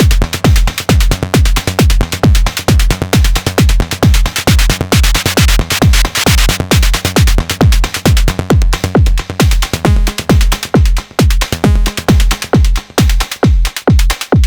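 Sonic Potions LXR-02 digital drum machine playing a techno groove: a four-on-the-floor kick about twice a second, each hit dropping quickly in pitch, under dense hi-hats and percussion. A bright noise swell rises and falls in the middle, and the kick drops out right at the end.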